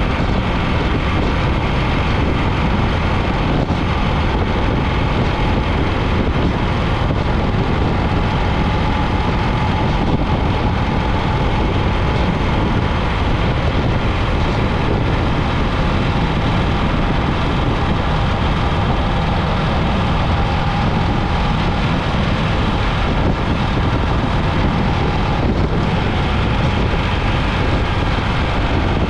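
BMW R 1300 GS boxer-twin motorcycle being ridden at a steady road speed, its engine running under a constant rush of wind noise.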